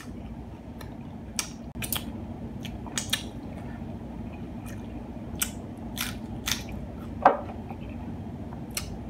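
Close-up chewing of a mouthful of crunchy hard-shell taco, with scattered short crunches and wet mouth clicks, one louder crunch about seven seconds in, over a steady low background hum.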